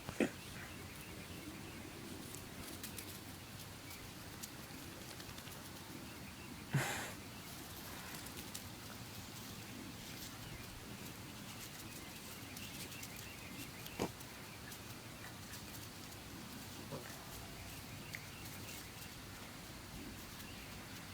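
Doberman puppy and chihuahua play-fighting: faint scuffling with a few sharp knocks, the loudest about seven seconds in.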